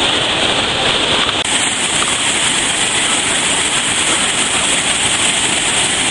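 Steady rushing and splattering of falling water from water-park sprays and fountains, loud and unbroken.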